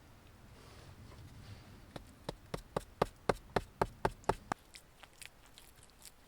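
A quick, even run of about ten knocks, some four a second, each with a short ring, followed by a few fainter ticks near the end.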